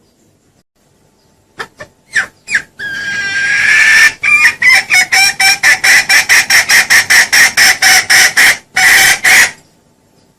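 Junglefowl lure call: a few short notes, then a long rapid run of clucks, about four a second, that stops abruptly near the end.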